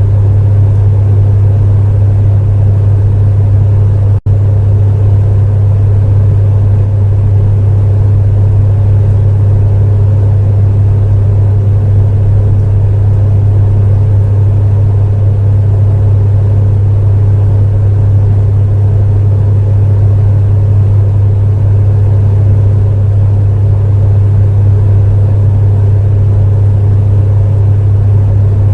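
Electric space heater running steadily, a loud, even low hum with a whirring fan noise above it. The sound drops out for a split second about four seconds in.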